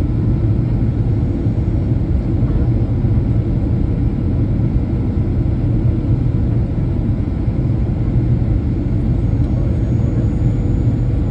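Steady low rumble of a Boeing 737's engines and airflow, heard inside the passenger cabin in flight.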